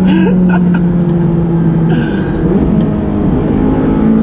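McLaren 570GT's twin-turbo V8 running at steady revs, holding one even engine note, with short dips and rises in pitch near the start and again a little past halfway.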